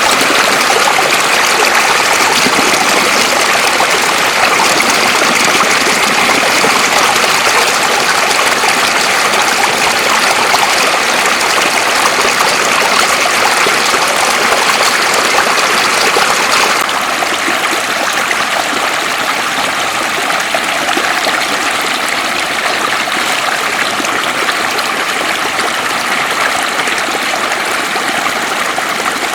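Floodwater running steadily over a road, a loud continuous rushing. About two-thirds of the way through it becomes slightly quieter and less hissy.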